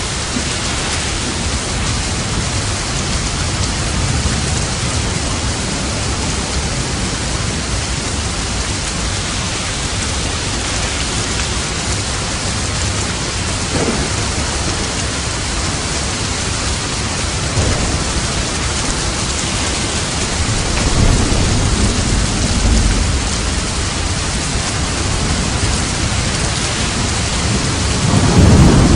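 Steady heavy rain with low rolls of thunder swelling up about two-thirds of the way through and again, louder, near the end.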